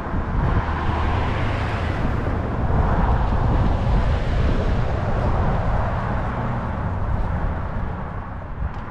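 Road traffic: a vehicle passing, its rumble and tyre noise swelling a few seconds in and slowly fading.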